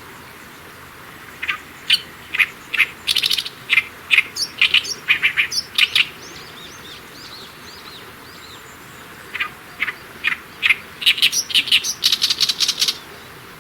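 Small wild bird giving rapid series of short, sharp, high chirps in two bouts, the first from about a second and a half in, the second from about nine and a half seconds in to near the end, with a few faint thin notes between the bouts.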